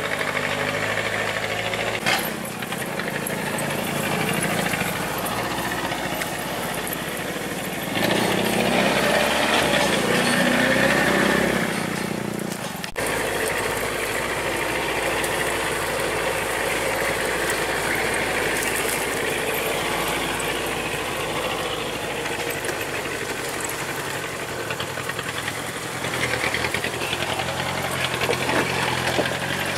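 Vehicle engine running continuously on a mountain road, louder for a few seconds about eight seconds in, then changing abruptly.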